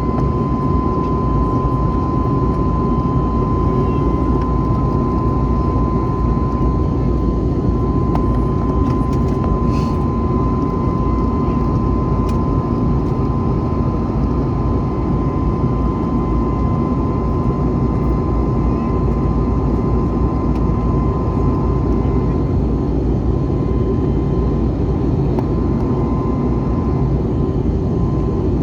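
Jet airliner's engines and rushing air heard from inside the cabin during the climb after takeoff: a steady, loud rumble with a constant high whine over it.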